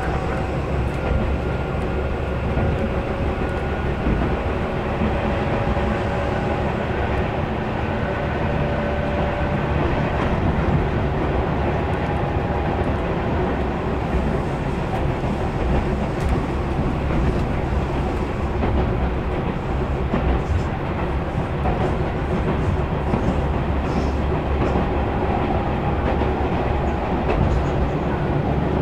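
Interior running sound of a Tobu 6050 series electric train car at speed: a steady, loud rumble of wheels on rail and running gear. A faint thin whine sits above it for the first ten seconds or so, then fades out.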